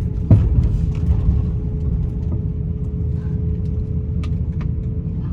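Airbus A350-900 cabin noise heard from a window seat: a steady low rumble with a constant hum. A sharp knock comes about a third of a second in, followed later by a few fainter clicks.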